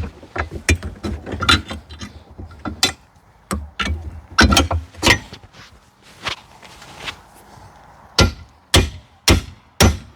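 Hand tools working on an Alpha One Gen 1 sterndrive's mounting nuts: irregular metal clicks and knocks, with four louder strikes about half a second apart near the end.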